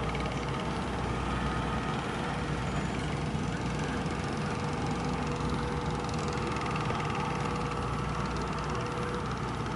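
A vehicle engine idling steadily as a low, even rumble.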